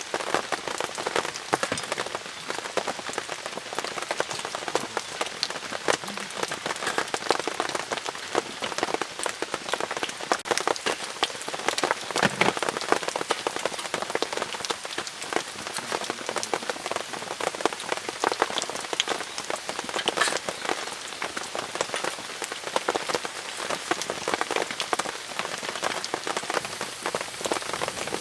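Steady rain falling on a tent's fabric, a dense, even patter of many drops.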